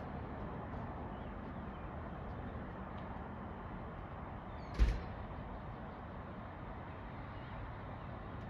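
Steady outdoor background noise with one short, sharp thump a little before the five-second mark.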